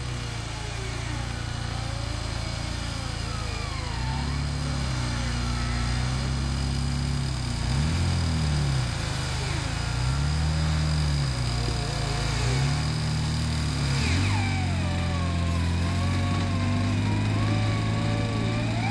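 Off-road Jeep Wrangler JK's engine revving up and down over and over, about every two seconds, as it crawls up a steep muddy slope on a taut winch line. About three-quarters of the way through it settles into a steadier, higher note, with a wavering whine above it.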